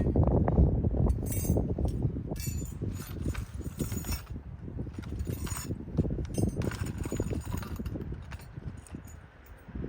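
Irregular metallic clinks and knocks of tools and brake parts being handled during a brake job, over a low rumbling noise.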